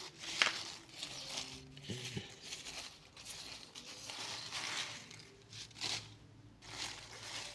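Dry dead leaves rustling and crunching in irregular bursts, about one every second or so.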